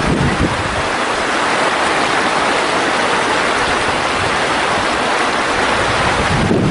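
Mountain stream rushing over rocks: a steady, even rush of water. Brief low rumbles of wind on the microphone come just after the start and near the end.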